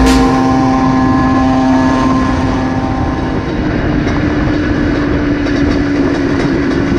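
Motorcycle running at a steady engine pitch that steps up about three and a half seconds in, over wind and road noise.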